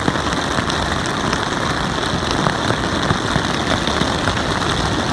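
Heavy storm rain and wind beating on a tent, a loud steady rush full of sharp drop hits.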